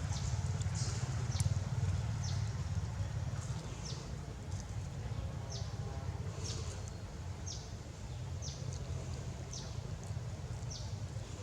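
Short, high, falling chirps from a small animal, repeating irregularly about once a second over a steady low rumble.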